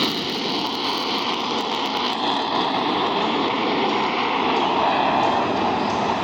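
Boeing F/A-18 Super Hornet jet engines heard in flight, a steady loud rush of jet noise with no distinct pitch.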